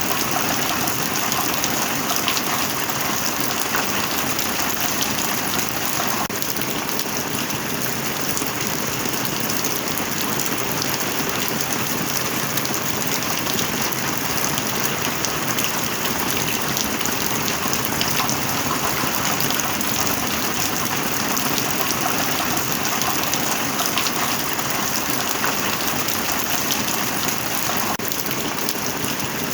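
Heavy rain falling steadily: a dense, even hiss with many small drop hits and no let-up.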